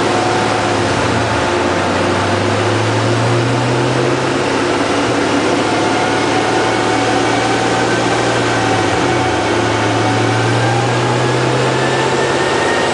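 Cadillac CTS-V's supercharged 6.2-litre V8, fitted with a full stainless exhaust, running steadily at low revs, with a faint whine that slowly rises in pitch.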